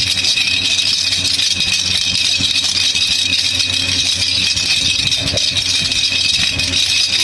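Baby rattle (jhunjhuna) shaken steadily, a continuous dense rattling at an even loudness.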